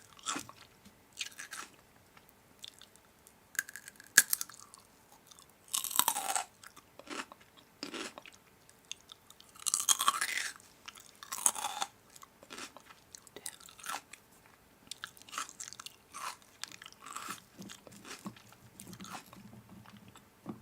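A person biting into and chewing crunchy food, in irregular crunches with short pauses between them.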